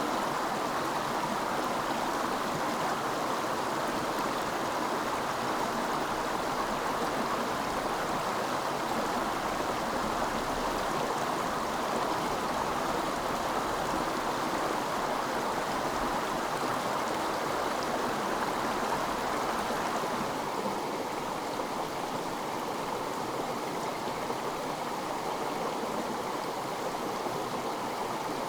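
A stream of running water rushing steadily, a little softer from about two-thirds of the way through.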